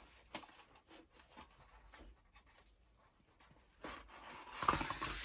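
Small handling clicks and knocks, then a scratchy rubbing from about four seconds in, as a perished old bicycle tyre is worked off its rim.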